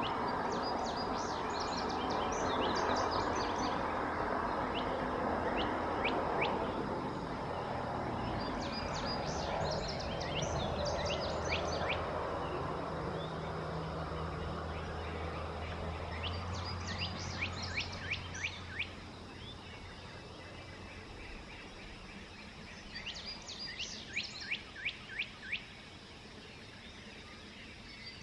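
A songbird sings the same short phrase of rapid, downward-sweeping notes four times, about every seven seconds. Underneath is a low, steady rumble that fades out about two-thirds of the way through.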